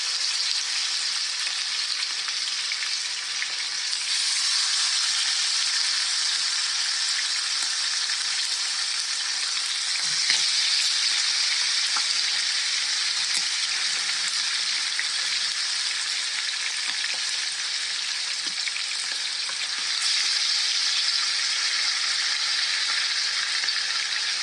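Seasoned chicken thighs searing skin side down in hot oil in a frying pan: a steady, bright sizzle that steps up louder about four seconds in and again near twenty seconds, with a few faint pops and clicks.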